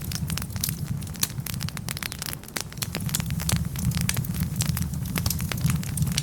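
Wood fire burning in a fireplace: dense, irregular crackling and sharp pops of burning logs over a steady low rumble of the flames.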